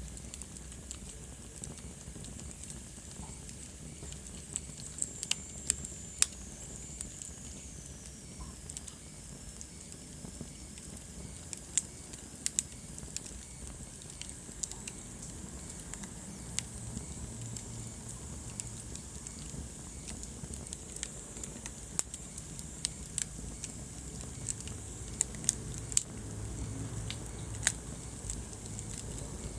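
Wood fire burning in a fireplace: a steady low rumble and hiss with sharp crackles and pops scattered irregularly throughout. The pops are the loudest sounds. About six seconds in, a faint high whistle slides down in pitch.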